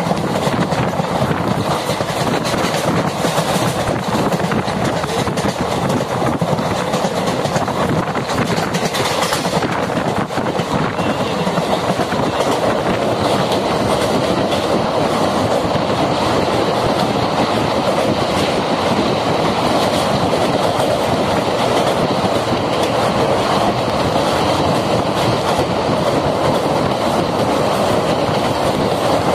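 Passenger train coach running at speed, wheels clattering steadily over the rails, heard from an open window. About halfway through the coach rolls onto a steel truss railway bridge and keeps running across it.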